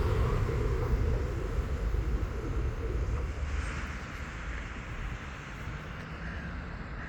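Low, steady rumble, like a distant engine, fading away over several seconds.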